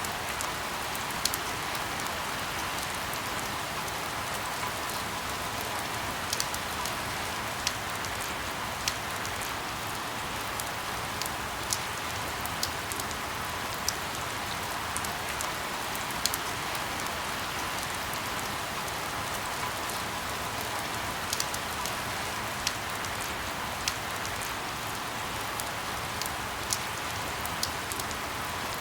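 Steady rain, an even hiss with scattered sharper drips and drop ticks landing close by.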